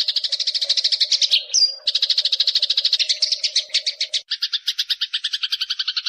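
Bird song-training recording: a fast, buzzy chattering trill of about ten notes a second, with a short rising squeak about one and a half seconds in. A second chatter with a lower tone takes over about four seconds in.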